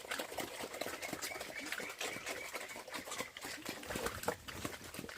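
Farm animals feeding: quick, irregular chewing or pecking clicks mixed with short grunts and squeaks.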